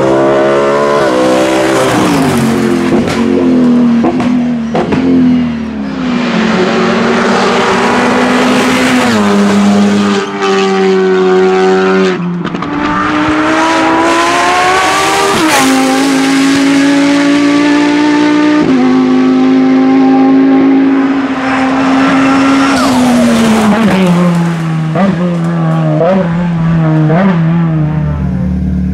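Hillclimb race car engine at full throttle, its pitch climbing and holding through several sharp steps that sound like gear changes. Over the last several seconds the pitch slides steadily down as the car moves away.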